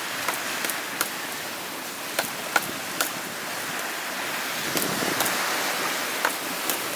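Steady rushing hiss of surf, with a dozen or so short sharp clicks scattered irregularly through it.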